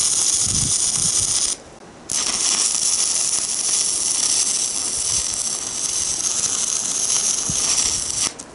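Stick-welding arc crackling steadily with a 2 mm electrode: a short run, a half-second break about a second and a half in, then about six seconds more until it cuts off near the end.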